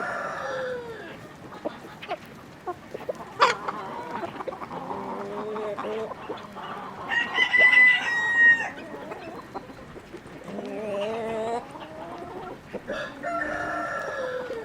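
Chickens clucking and calling repeatedly, with a rooster crowing once about seven seconds in, the loudest sound. A single sharp click a little after three seconds.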